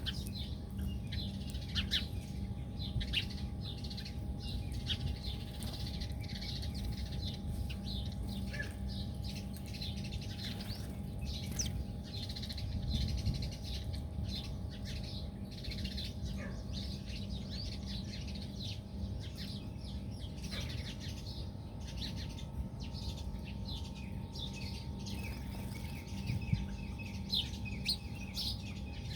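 Many small birds chirping and twittering together, short quick calls overlapping without a break, over a steady low rumble.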